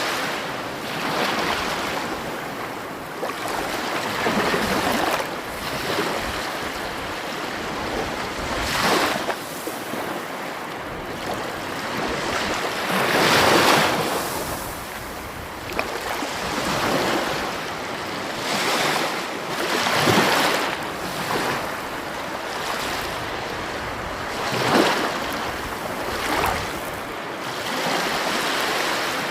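Sea waves breaking and washing onto the shore, a steady rush that swells every few seconds as each wave comes in.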